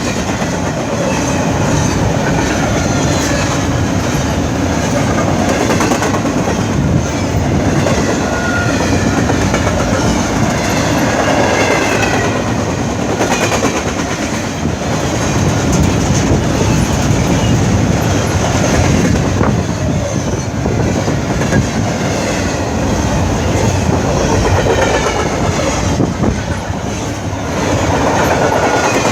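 A Norfolk Southern train's cars rolling steadily past, their wheels clacking over the rail joints. Faint wavering high-pitched squeals come from the wheels.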